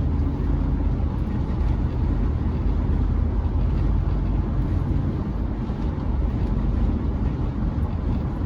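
Steady road and engine noise inside the cab of a Chevrolet C10 pickup while driving, a low rumble with tyre hiss and no sudden events.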